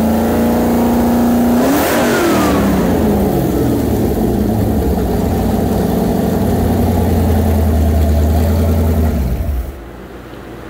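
Ford 302 V8 with a roller cam and Holley Sniper fuel injection running on a test stand: held at raised revs, then let down about two seconds in, its pitch falling back to a steady idle. About nine and a half seconds in the engine shuts off.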